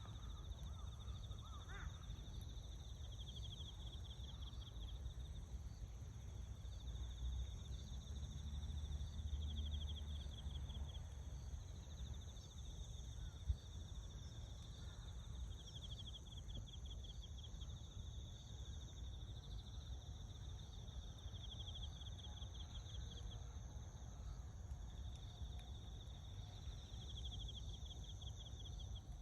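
Insects buzzing steadily in the background, with a pulsed trill that swells about every six seconds, over a low outdoor rumble. There is one sharp click about halfway through.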